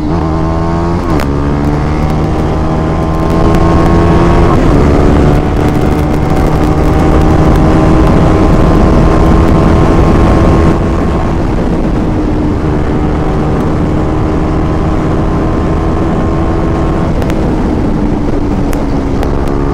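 KTM Duke 390's single-cylinder engine running hard at high speed. The revs climb with breaks about one and five seconds in, as it shifts up. The engine then holds a nearly steady high note and eases a little, going quieter about eleven seconds in.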